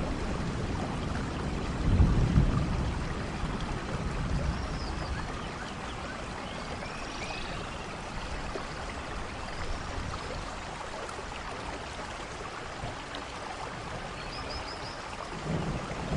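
Steady rain with a low rumble of thunder about two seconds in that slowly fades, and another rumble starting near the end. A few faint high chirps sound over the rain.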